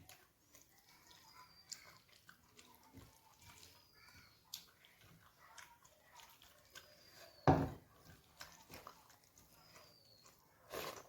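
Close-miked chewing and eating of a rice-and-dal meal, with small wet mouth clicks. A faint short falling whistle recurs about every two seconds, and there is a loud thump about seven and a half seconds in and another near the end.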